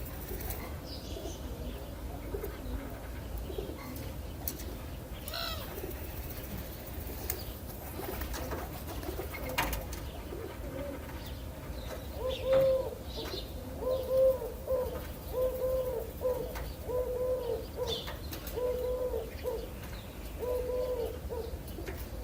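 Birdsong ambience: scattered short high chirps and trills, then, from about halfway through, a low cooing call repeated about a dozen times in a steady series.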